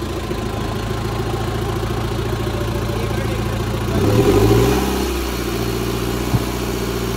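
Mahindra Thar CRDe's diesel engine idling steadily. About four seconds in, the sound rises in pitch and gets louder for about a second, then settles back to idle. A single short click comes near the end.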